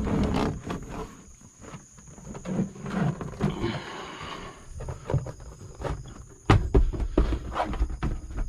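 Heavy vinyl floor covering being pushed and flexed into place over a truck's floor pan: rustling, creaking handling noise, then a run of knocks and thumps from about six and a half seconds in.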